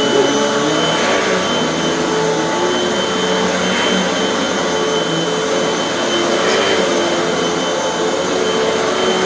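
Hoover bagless upright vacuum cleaner running steadily just after being switched on, with a steady high motor whine over a lower, slightly wavering hum.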